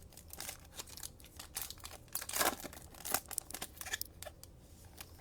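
Trading cards and their plastic sleeves and wrapper being handled: soft scattered rustles and crinkles, with a longer scrape about two and a half seconds in.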